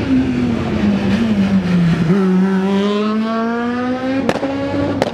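Rally car engine at high revs, its pitch sinking for about two seconds, then climbing steadily as the car accelerates hard. Two sharp cracks come near the end.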